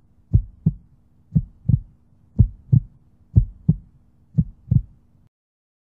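Heartbeat sound effect: deep doubled thumps, lub-dub, about one beat a second over a faint steady hum, cutting off suddenly near the end.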